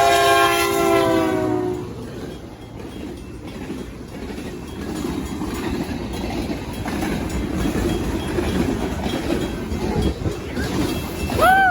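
Locomotive horn sounding a chord that dips slightly in pitch and cuts off about two seconds in. It is followed by the rumble and clatter of the train's wheels on the rails as it passes close by. A brief shout comes near the end.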